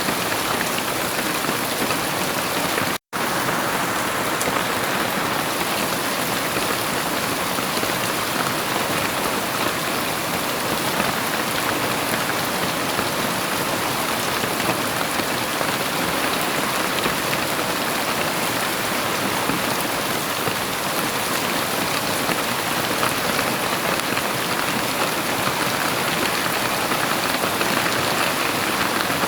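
Heavy rain falling in a steady, even downpour, breaking off to silence for an instant about three seconds in.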